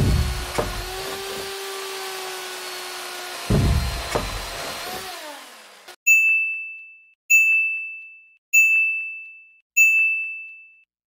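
Small hobby DC motor with a plastic cutter disc whirring steadily as it cuts grass stalks, with two low thumps, then winding down with a falling pitch and stopping about six seconds in. After it, four evenly spaced electronic pings, a sonar-like ding about once a second.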